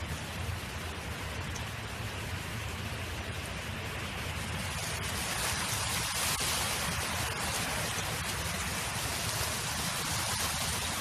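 Wind blowing across an open field, a steady rushing hiss that grows stronger about five seconds in.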